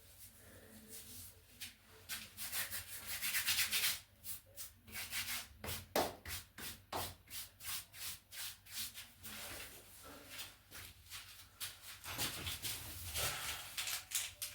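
Steel trowel scraping through tile adhesive in quick repeated strokes, two or three a second.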